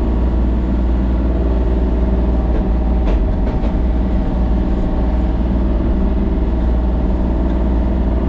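A vehicle engine running steadily, a continuous low drone.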